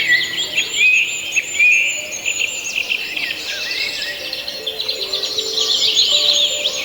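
Many small birds chirping and twittering together, over a steady high insect trill.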